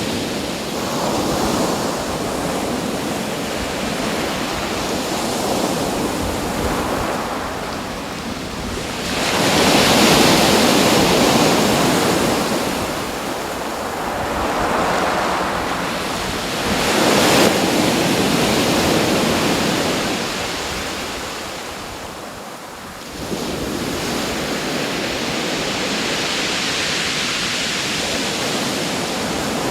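Ocean surf: waves swelling and washing in every few seconds, with wind. The sound fades briefly and comes back abruptly a little past the middle.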